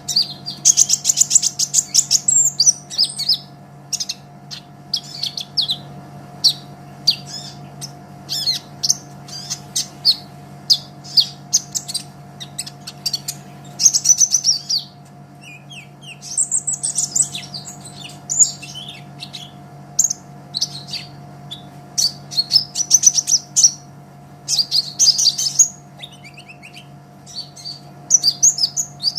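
Kolibri ninja sunbird singing hard: high-pitched chirps and fast trills in quick repeated phrases with short pauses. A faint steady hum sits underneath.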